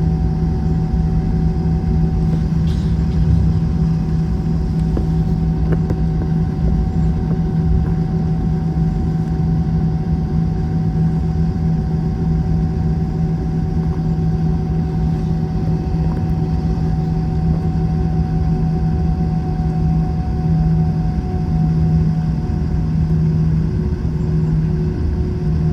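Airbus A321 jet engine drone heard inside the cabin: a loud, steady low hum with fainter higher tones over a rushing noise. The highest tone sinks slightly about two-thirds of the way through.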